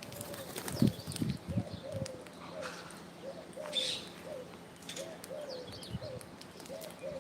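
Pigeon cooing in short, repeated notes, with a few low thumps about a second in and a brief sharp higher call near the middle.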